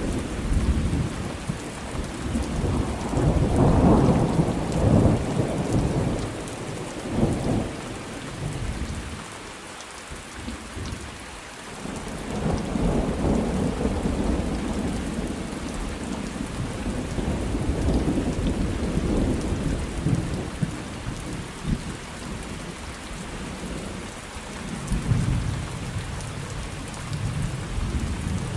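Thunderstorm: steady rain with rolling thunder that swells and fades, loudest about four seconds in, and rumbles again later with a quieter lull around ten seconds in.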